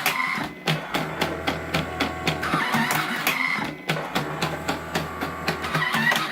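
Automatic electric cigarette-making machine cycling: a motor hum runs for about two seconds, stops briefly, and starts again roughly every three seconds, with rapid mechanical clicking throughout.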